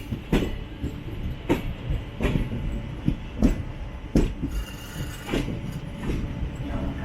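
Passenger train wheels clacking over rail joints, with irregular sharp knocks about once a second over a steady low rumble, as the train runs slowly into a station.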